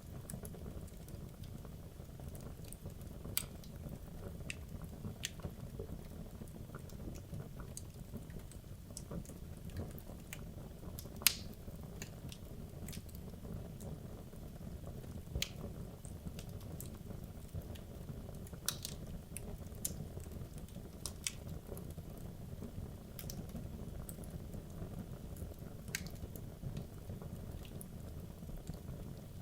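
Wood logs burning in a fireplace: a steady low rumble of the flames with scattered sharp crackles and pops, the loudest about a third of the way in.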